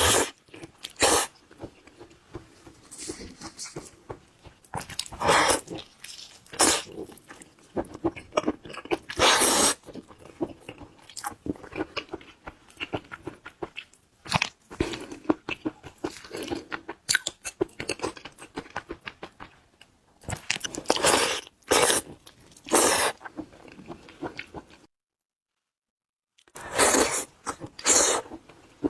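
Close-miked eating of lobster: irregular crunches, bites and wet chewing sounds. Near the end the sound cuts to total silence for about a second and a half, then the chewing resumes.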